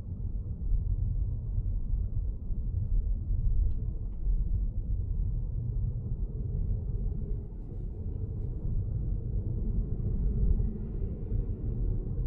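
Steady low road and tyre rumble of a Lexus GS450h hybrid sedan driving at speed, heard muffled as a low drone.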